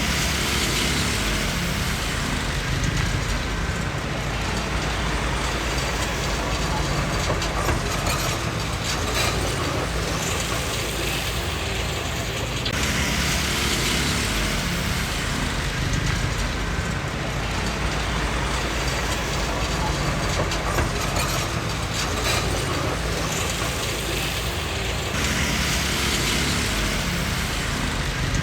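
Komatsu D20P crawler bulldozer working: its diesel engine runs steadily under load, with clanking from the machine. The sound grows brighter and duller in stretches of several seconds, changing sharply about thirteen seconds in and again near the end.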